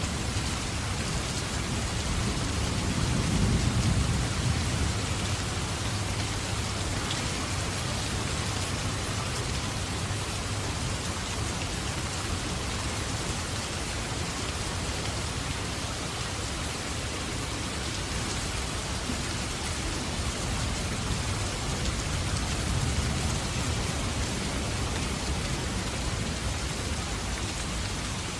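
Steady rain falling. A low rumble swells up about three seconds in and again later.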